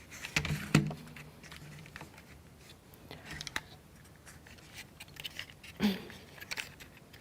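Light clicks and taps of wooden plywood model parts being handled on a table, with a sharper knock about a second in and another just before six seconds.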